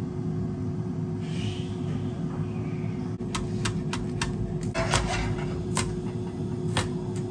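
A steady low hum with a faint steady tone. From about three seconds in, a string of sharp clicks and knocks, about eight in all.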